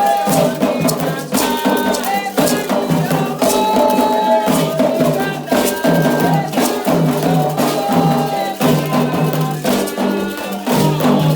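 Candomblé ritual music: voices singing a chant over drums, with a shaken rattle keeping a steady beat.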